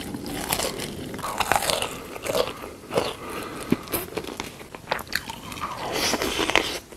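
Close-miked eating sounds: irregular crunchy bites and chewing of crisp food.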